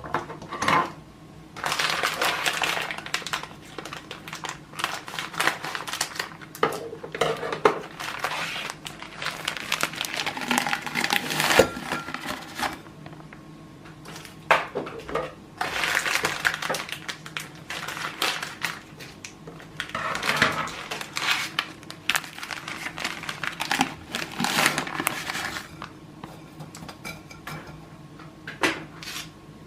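Kitchen items and food packaging being handled and set down: irregular knocks and clinks, with crinkling of wrappers, over a steady low hum.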